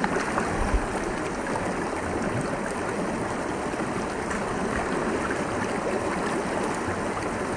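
Creek water running, a steady flowing sound with faint small splashes and ticks.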